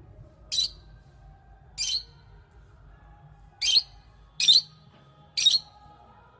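A bird giving five short, harsh, high-pitched squawks at uneven intervals.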